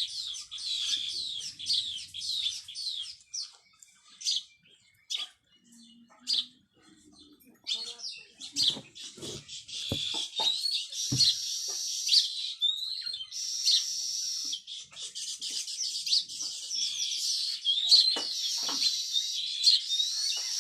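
Pet parakeet chirping and chattering in rapid, high-pitched calls. The calls come sparsely for a few seconds, then almost without pause from about eight seconds in, with a few soft knocks around the middle.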